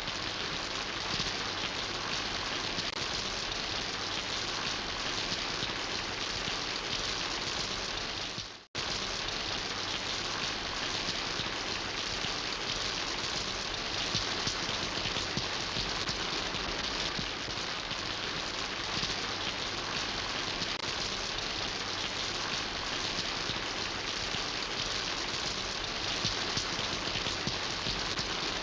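Steady rain falling, a dense, even patter of drops on surfaces. About eight seconds in it fades quickly to silence for a moment, then cuts straight back in at the same level.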